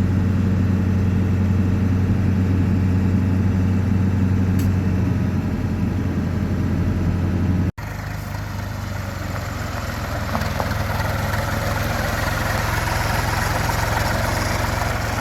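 Vehicle engine running steadily with a deep hum. About halfway through it cuts off abruptly to a different engine and road sound, hissier and with less low hum.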